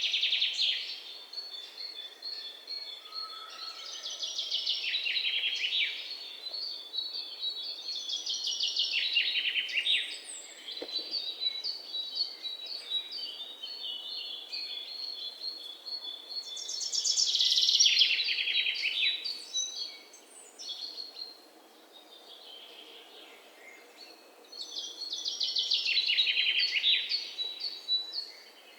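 Songbird singing: a loud, high, falling phrase every few seconds, with a thin, steady high-pitched note going on between phrases.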